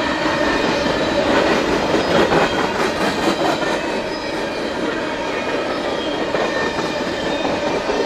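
Empty open-top coal cars of a freight train rolling past close by: a steady wheel-on-rail rumble with clacking, busiest about two to three and a half seconds in, and thin steady ringing tones above it.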